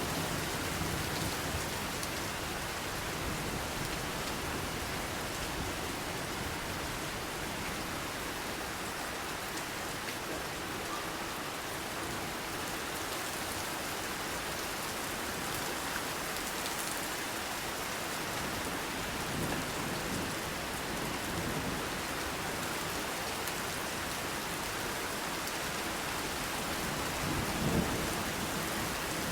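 Steady rain falling, with low thunder rumbling a few times; the loudest rumble swells near the end.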